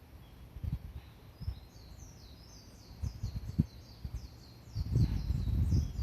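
Blue rock thrush singing a quick run of short, high warbled notes, starting about a second and a half in, over low rumbling noise that is loudest near the end.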